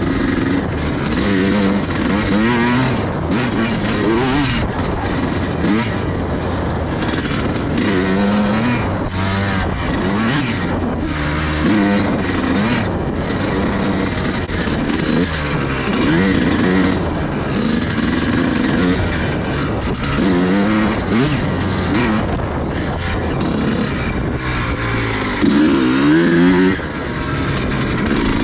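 Pit bike engine being ridden hard through mud, its pitch rising and falling over and over as the throttle is opened and closed every second or two, with a louder burst of revs near the end.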